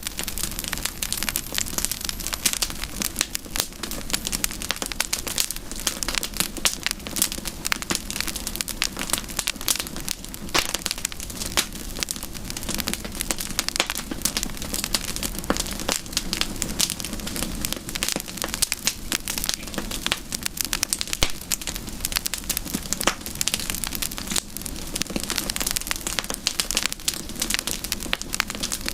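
Campfire crackling, a steady stream of small snaps and pops.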